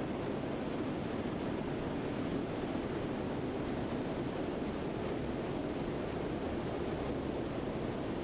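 Steady, even drone of a C-130's four turboprop engines and propellers, heard inside the aircraft in flight.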